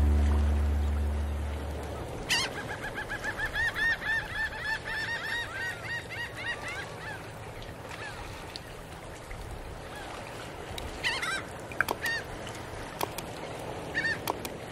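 Closing music fading out, then birds calling: a rapid run of repeated, honking calls for about five seconds, followed by a few scattered single calls near the end.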